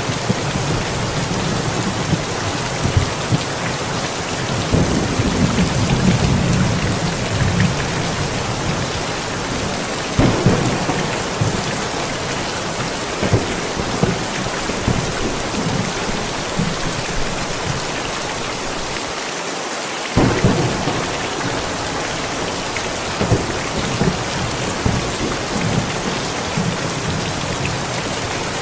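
Steady rain with thunder rumbling several times, including a sudden louder clap about twenty seconds in.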